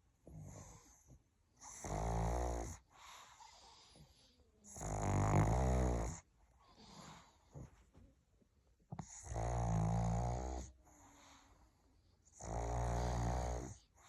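Pug snoring in its sleep: four loud snores, each about a second long, every three to four seconds, with softer breaths between. Loud snoring like this is typical of the pug's short nose.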